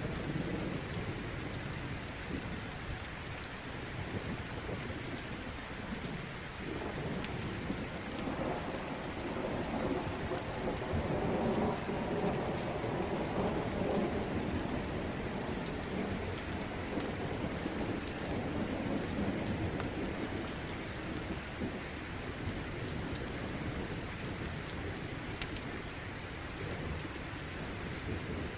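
Steady rain with a long rolling rumble of thunder that swells about a third of the way in and fades out over some ten seconds, with scattered sharp crackles over it.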